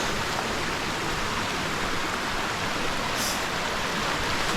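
Steady rushing of river water, an even hiss with no breaks, with a brief high hiss about three seconds in.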